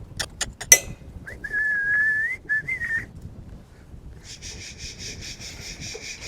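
A person whistling to a working cow dog: one long whistle that rises at its end, then a short second whistle. A few sharp clicks come just before. Near the end there is a high, fast pulsing buzz, about six pulses a second.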